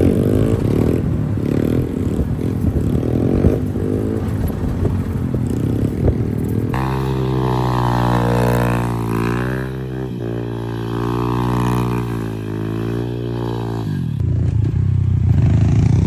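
Dirt bike engines running and revving. In the middle stretch one engine holds a strong note that rises and falls with the throttle, and there is clatter around it.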